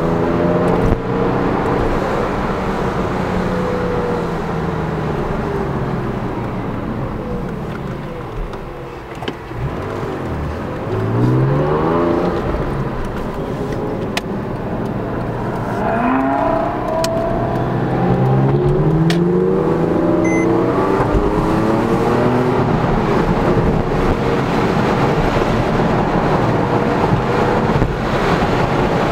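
Porsche 911 Carrera S (997) flat-six heard from inside the cabin. Its note falls as the car eases off and slows over the first several seconds, then rises steeply as it accelerates about ten seconds in. It pulls up through the gears again from about sixteen seconds, over steady road noise.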